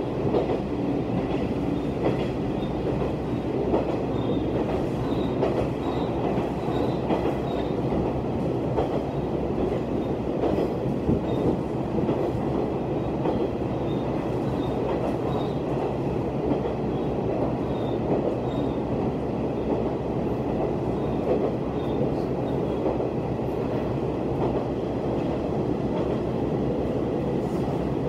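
Heisei Chikuho Railway diesel railcar running steadily at speed, heard from inside the car: a constant rumble of the engine and the wheels on the rails.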